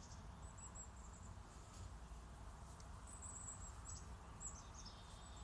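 Faint, very high-pitched chirps of small birds, in several short runs of quick notes, over a low steady rumble.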